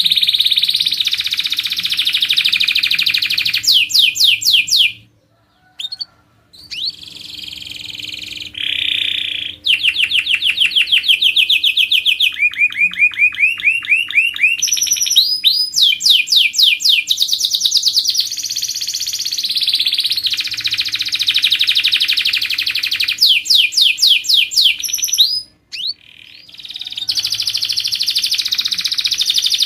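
Domestic canary singing a long song of fast trills and rolls, with several rapid runs of sweeping notes and brief pauses about five seconds in and again near the end. This is tutor song used to train canaries for singing contests.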